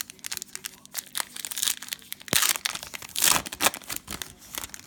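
Cellophane wrapper of a Panini Prizm basketball cello pack crinkling and tearing as it is opened, with a rapid run of crackles and the loudest rips about halfway through.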